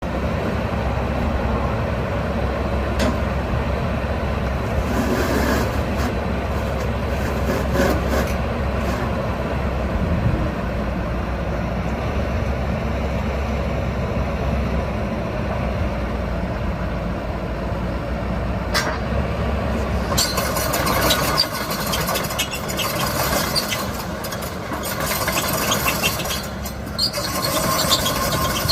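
Komatsu PC138USLC-11 tracked excavator's diesel engine running with a steady low hum. About twenty seconds in, high-pitched squealing and clanking from the machine join it.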